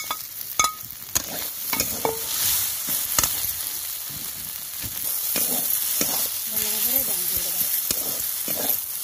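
Fried okra pieces tipped into a hot metal kadai of spiced onion masala and stirred with a metal spatula: the oil sizzles while the spatula scrapes and clinks against the pan, with a few sharp clinks in the first three seconds and the sizzle growing steadier after that.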